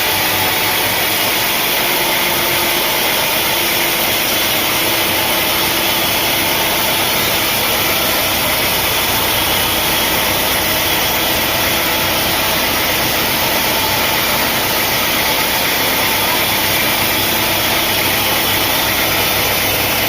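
Heavy machinery running steadily, a continuous engine-like noise that stays constant in level with no sudden changes.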